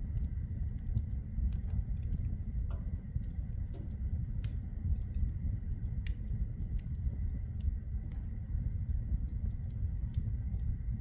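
Logs burning in a wood fireplace: irregular sharp crackles and pops over a steady low rumble of the flames.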